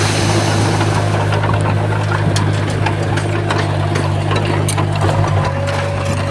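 Heavy diesel earthmoving machinery engine running steadily, with scattered light clicks and clanks over it.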